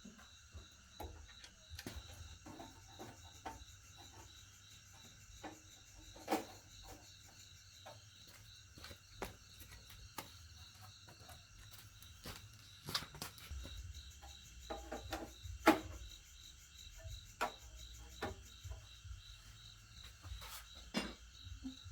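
Insects trilling steadily in the background, with scattered light clicks and knocks throughout and one sharper knock about two-thirds of the way in.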